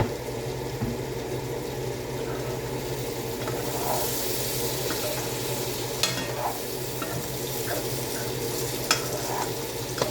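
Luncheon meat and diced potato sizzling as they fry in a pan and are stirred, with a few sharp clicks of the utensil against the pan over a steady low hum.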